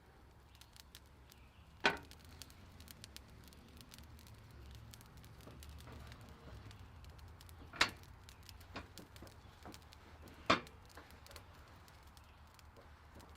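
Three sharp knocks, about two seconds in, near the middle and about three seconds later, over faint scattered ticks and a low steady hum.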